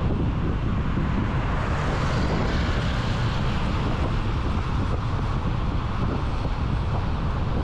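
Wind buffeting a motorcycle-mounted action camera's microphone while riding, a steady low rumble of rushing air over the motorcycle and traffic noise.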